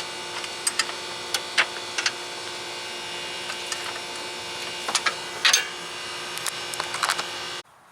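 Scattered light metallic clicks and taps from a socket wrench and a bolt being worked off the headlight arm, over a steady hum; the sound cuts off suddenly near the end.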